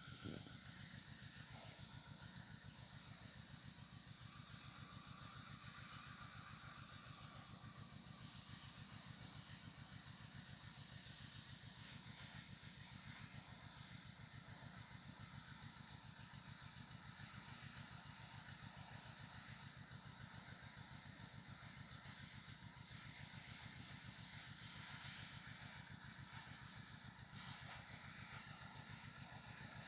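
Motorized crop sprayer spraying fertilizer: a small engine running steadily under a constant hiss of spray.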